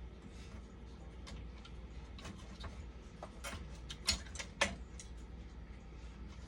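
Irregular small clicks and taps of tools and parts being handled during a repair, with two louder clicks a little after four seconds and about half a second apart, over a low steady hum.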